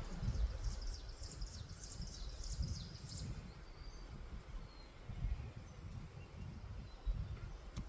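A bird chirping in a quick run of short high notes for about two and a half seconds, then a few faint calls later, over a low rumble of wind noise.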